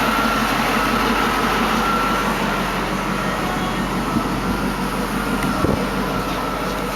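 The 4.6-litre V8 of a 1999 Roush Stage 2 Mustang idling steadily, heard through its side-exit exhaust.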